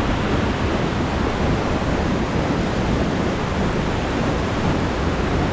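Steady, loud rush of a large waterfall crashing into its pool close by, with wind buffeting the microphone.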